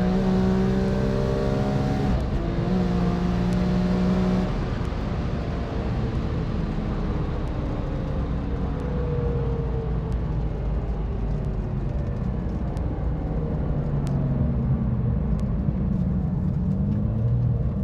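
Race car engine at full throttle down the runway. Its high steady note breaks off about two seconds in and again about four and a half seconds in, as gears change. It then goes on as a lower, fainter engine sound that slowly shifts in pitch.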